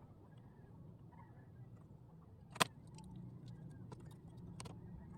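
Small hand-work noises on a workbench: one sharp click about halfway through and a couple of fainter ticks later, over a low steady hum.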